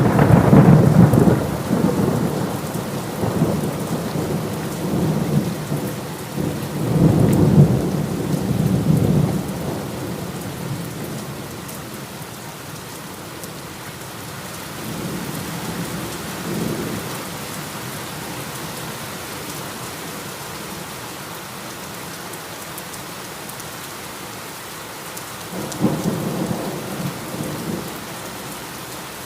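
Steady rain falling with rolling thunder: a loud crack and rumble at the start, another long rumble a few seconds later, fainter rumbles midway and one more near the end.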